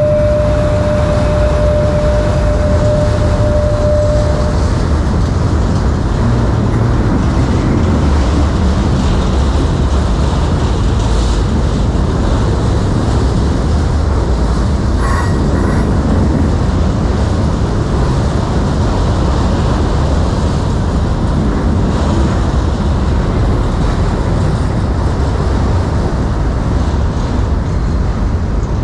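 Freight train cars rolling past at steady speed, a continuous loud rumble of steel wheels on rail. A thin steady tone, fitting a wheel squeal, fades out about four seconds in.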